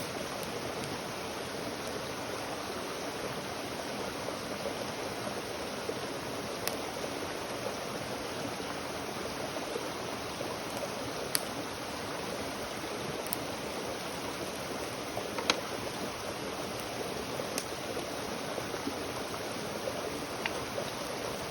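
Wood campfire crackling, with sharp single pops every few seconds over a steady rushing hiss.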